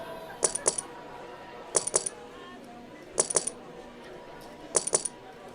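Online roulette game's chip sound effect: a quick clink-clink of casino chips, repeated four times about a second and a half apart as chips are placed on the table.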